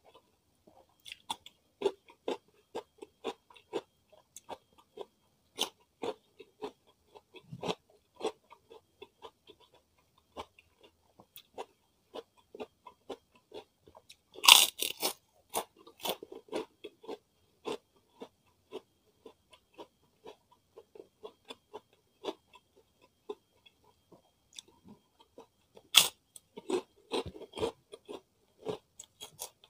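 Close-miked eating: a crisp cucumber slice is crunched and chewed, then about halfway a loud crunch as a kerupuk (fried cracker) is bitten, followed by crunchy chewing. Another sharp crunch comes near the end.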